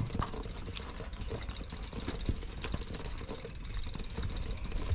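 Bicycle being ridden: a steady low rumble with scattered clicks and rattles throughout.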